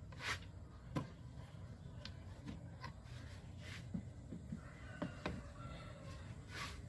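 Scattered light clicks and knocks with a few short rustling hisses over a low steady hum, like tools and parts being handled during work on the engine.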